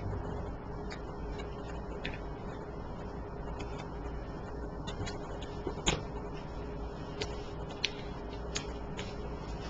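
Tarot cards being shuffled and handled, giving soft, irregular clicks and taps, a couple a little louder, over a steady background hum.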